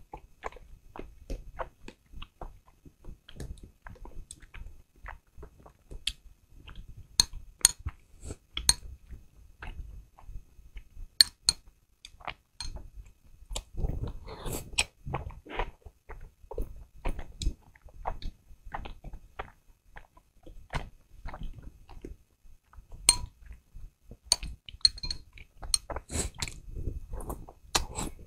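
Close-miked chewing and biting of meat-filled soup dumplings, wet and irregular, with now and then a sharp click of chopsticks against the glass dipping bowl.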